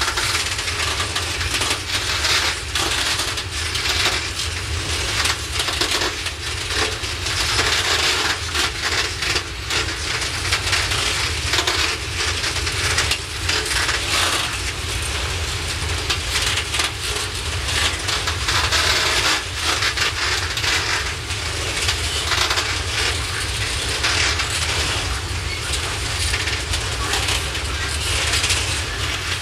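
Loaded open coal wagons of a heavy freight train rolling past, with a dense, continuous clatter and metallic rattling of wheels over rail joints and wagon bodies, over a low rumble.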